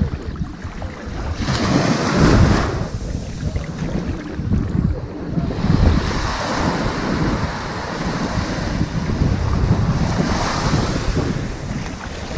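Ocean waves washing onto a sandy beach. Each wave surges in and recedes, about every four seconds.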